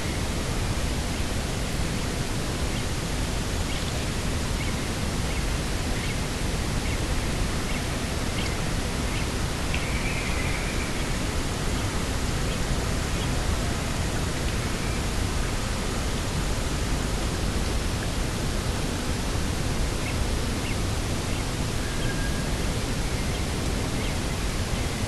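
Steady, even rushing of wind across an open coastal field, with a few faint short chirps about ten seconds in and again near the end.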